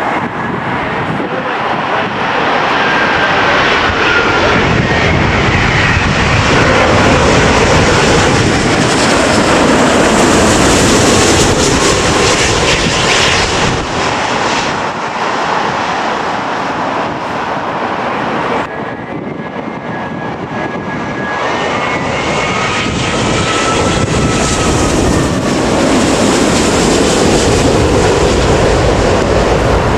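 Jet airliner passing low overhead on final approach to land: a loud engine roar with a thin whine over it, swelling to a peak and easing off. The noise drops abruptly about two-thirds of the way through, then builds again.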